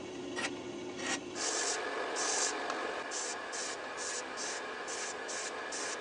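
Rhythmic rubbing, rasping strokes on wood over a steady machine hum. The strokes come slower at first, then about a second and a half in turn faster and hissier, at roughly two to three a second.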